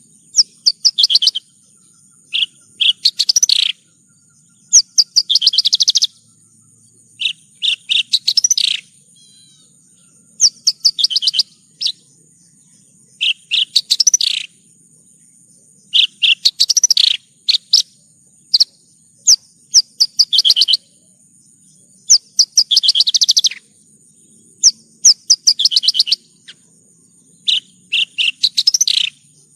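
Horsfield's bush lark (branjangan) singing: short bursts of rapid, high twittering trills, about one every two to three seconds.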